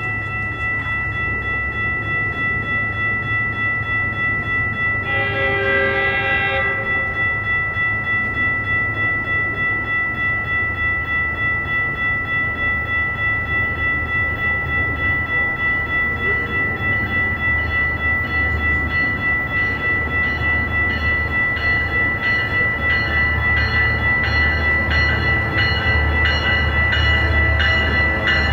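Train warning bells ringing with a steady, regular beat while a train rumbles and grows louder. A short horn blast sounds about five seconds in.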